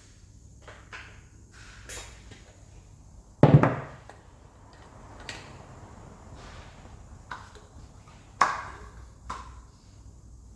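Workshop clatter of metal parts and tools being handled during an engine stripdown: a heavy clunk with a short ring about three and a half seconds in, a sharper knock near eight and a half seconds, and scattered lighter clicks and taps in between.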